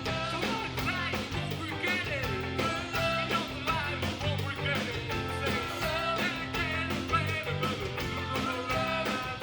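Live rock band playing, with drums keeping a steady beat under bass and guitar. A lead line bends up and down in pitch above them and settles into one long held note near the end.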